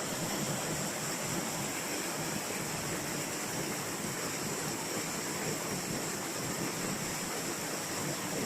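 Steady rushing of water falling at a waterfall.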